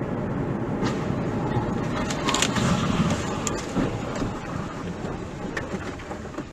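Car on the road heard through a dashcam: steady road and engine noise, with a few sharp clicks or knocks over it. It cuts off abruptly at the end.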